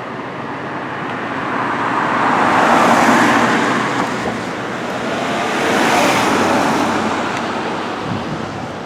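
Road traffic: two vehicles going by close, the tyre and engine noise swelling and fading twice, loudest about three and six seconds in.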